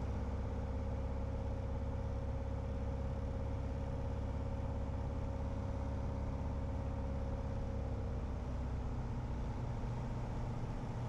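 Piper single-engine light aircraft's piston engine and propeller droning steadily in the cockpit on final approach, with a faint steady whine that fades out about eight seconds in.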